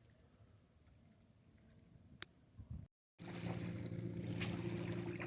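Insects chirping in a fast, even, high-pitched pulse of about four a second, with a single click near the middle. After a break, a steady low hum with an airy noise takes over.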